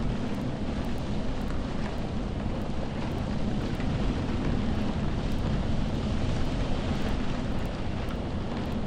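Steady rainfall: a continuous, even hiss with a deep rumble underneath.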